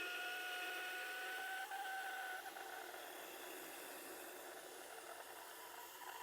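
Tormek T8 wet grinder's coarse stone grinding a steel scraper blade: a steady high whine over a grinding hiss. The whine drops out about two and a half seconds in, leaving a softer hiss.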